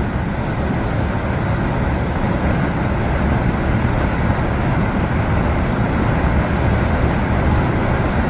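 Steady rumbling roar of a boat under way in rough water, with no clear break or single impact.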